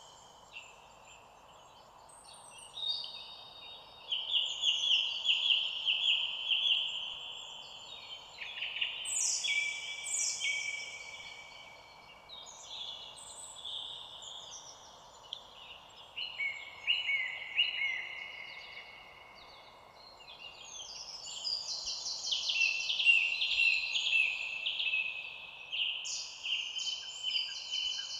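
Several songbirds singing in quick chirps and rapid trills over a faint steady background hiss. The song drops away for a few seconds at the start and again about two-thirds of the way through.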